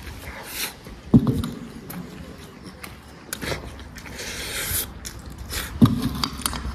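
A man chewing a mouthful of pork, with scattered small clicks and scrapes of eating. Two heavy thumps come about a second in and near the end, and there is a brief rustle in between.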